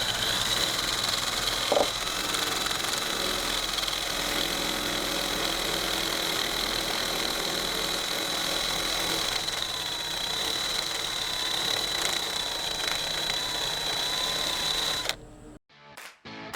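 Handheld Dremel rotary tool with a sanding bit running at high speed, grinding rust off a car's roof panel: a steady high whine over a hiss of abrasion, its pitch wavering a little as it bears on the metal. It cuts off suddenly near the end.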